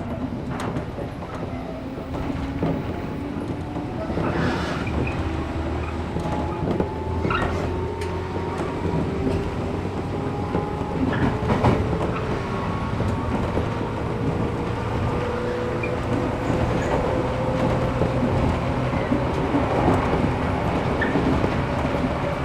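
Inside a resistance-controlled JR 113 series 1500-subseries electric train under way: the traction motor and gear whine climbs slowly and steadily in pitch as the train accelerates, over a rumble of running noise, with the wheels clicking over rail joints now and then.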